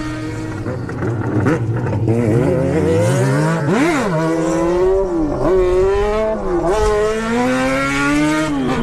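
Motorcycle engines revving hard, the pitch climbing and falling. There is a sharp rev up and straight back down about four seconds in, and quick drops in pitch around five and a half and six and a half seconds.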